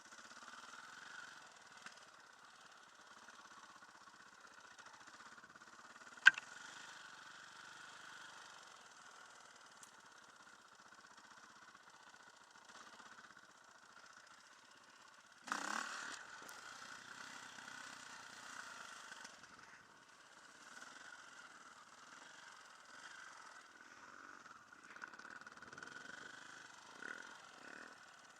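Enduro dirt bike engine running steadily and faintly, with one sharp click about six seconds in and a knock about fifteen seconds in.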